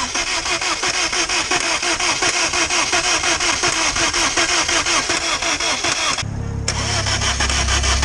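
Starter motor cranking a Rover K-series four-cylinder engine in an even, rapid rhythm on a first start attempt, without it catching. About six seconds in the cranking stops briefly, then a deeper, steadier mechanical sound starts.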